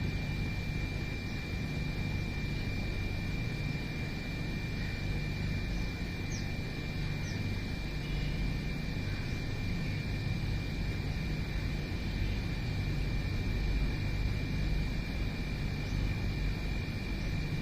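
Steady low outdoor rumble, like distant traffic or wind, with a continuous thin high tone over it. Two faint, brief chirps come about six and seven seconds in.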